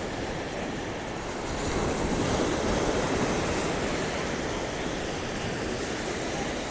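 Ocean surf washing onto the beach: a steady rushing noise that swells about a second and a half in and then settles.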